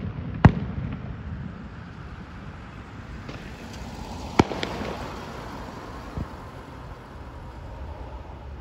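Aerial fireworks going off: a loud bang about half a second in that rumbles on, sharp cracks a little past the middle, and a dull thump near six seconds.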